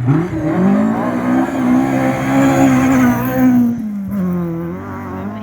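Rally car engine revving hard under acceleration, pitch climbing, then dropping sharply about four seconds in as the driver lifts or changes gear, before it picks up again.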